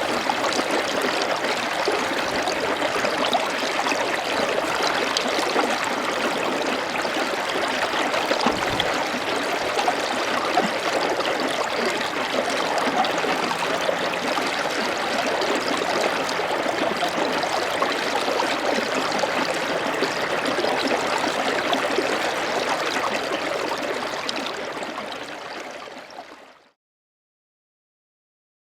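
Running water flowing steadily, a continuous rushing and gurgling that fades out to silence near the end.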